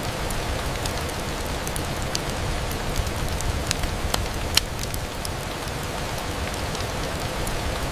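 Steady rain on a window, with scattered sharp ticks of drops and one louder tick about four and a half seconds in.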